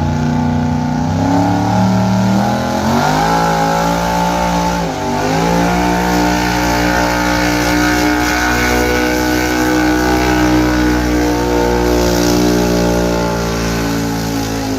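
Gas-engine street pickup truck pulling a weight-transfer sled at full throttle: the engine revs climb over the first few seconds, dip briefly about five seconds in and recover, then hold steady at high revs.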